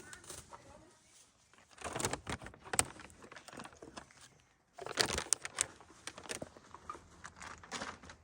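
Crinkling and rustling of plastic bags being handled, in two bouts of crackling: one about two seconds in and a longer one from about five seconds in.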